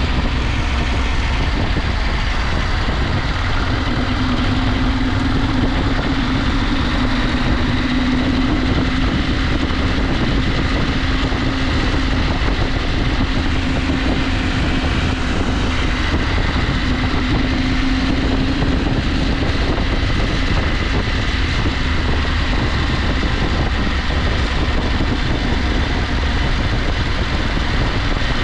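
KTM 890 Adventure's parallel-twin engine running at a steady cruise on a dirt road, its pitch holding fairly even, under a constant low rumble of wind and riding noise.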